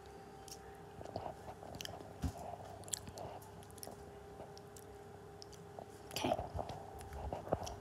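Someone chewing close to the microphone, with scattered small clicks and crackles over a faint steady hum.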